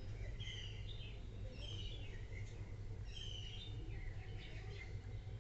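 A bird calling, a short phrase of high falling chirps repeated about four times, every second or so, over a steady low hum.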